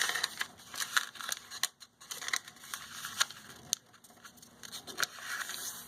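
A sheet of paper being folded and creased by hand: irregular rustling with short scraping crackles.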